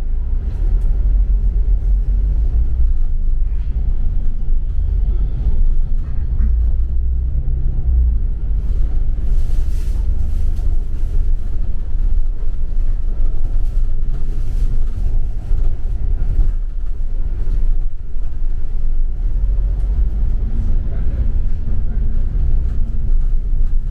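Double-decker bus in motion heard from inside the passenger cabin: a steady low rumble of engine and road noise.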